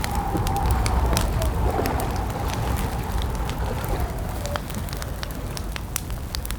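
Campfire crackling: scattered sharp pops and snaps over a steady low rumble, with a faint wavering whistle-like tone that fades out about two-thirds of the way through.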